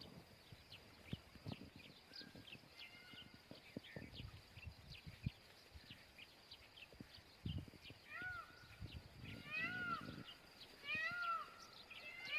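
Indian peafowl giving short, arched, meow-like calls in groups of two or three from about two-thirds of the way in, fairly faint. Before that, many quick high chirps from small birds, with a few low thumps.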